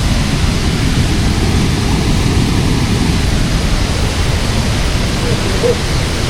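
Steady, loud rush of river water.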